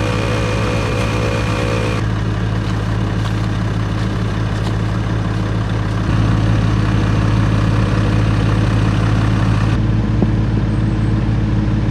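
ARB dual air compressor running steadily, inflating all four tires at once through a Kraken inflation system. It makes a constant motor hum that gets a little louder about halfway through.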